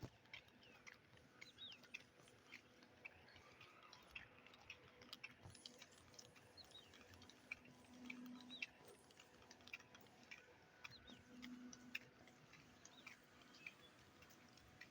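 Faint monsoon rain: irregular drips and patter ticking at random, with a few faint high chirps.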